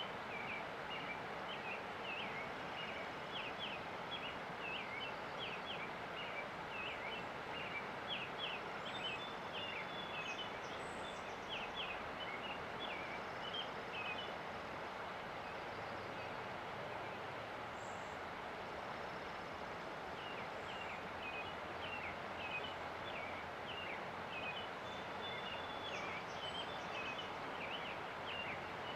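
River water rushing steadily. Over it a small songbird sings long, rapid strings of chirps through the first half, pauses, and starts again about two-thirds of the way through.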